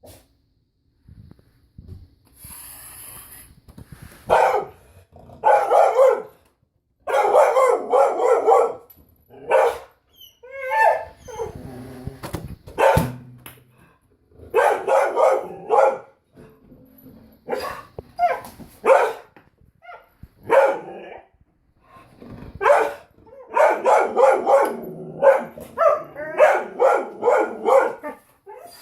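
Dog barking over and over in quick runs of barks, with short pauses between the runs.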